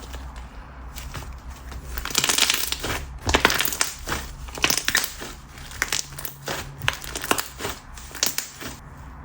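A thick, slightly overactivated Korean clay slime being squeezed and stretched by hand, crackling with many irregular sharp clicks, thickest between about two and four seconds in.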